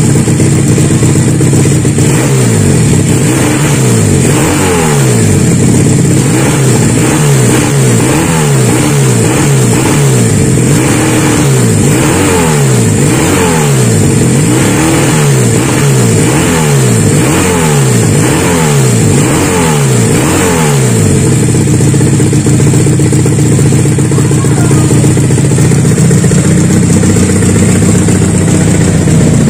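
Custom two-cylinder engine in a Honda Supra motorcycle, blipped over and over, about one rev a second, rising and falling each time, for nearly twenty seconds. About 21 seconds in it settles back to a steady idle.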